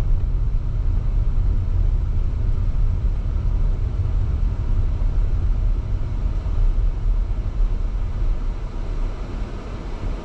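Steady low road and engine rumble of a moving car, heard from inside the vehicle, easing off slightly near the end.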